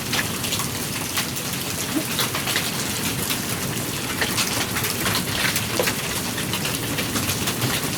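Hailstorm with rain: a steady hiss of falling precipitation with many irregular sharp ticks of hailstones striking hard surfaces.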